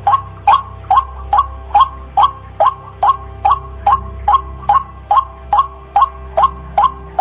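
White-breasted waterhen (ruak-ruak) calling: a loud, rapid series of short, identical notes, about two and a half a second, used as a lure call to draw other waterhens in.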